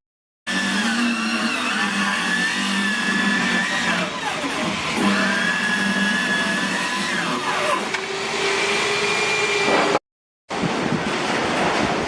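Power tool motor running under load, its whine dropping in pitch around four seconds in and again around seven and then picking back up. The sound cuts out abruptly for a moment twice.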